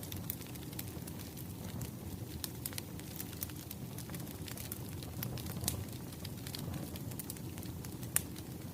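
Wood fire crackling: scattered sharp pops and snaps over a steady low rumble of flames, with one louder pop near the end.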